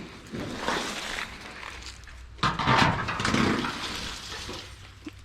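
Scraping and rattling of a sheet of metal being handled and lifted off the ground, with a louder clatter about two and a half seconds in.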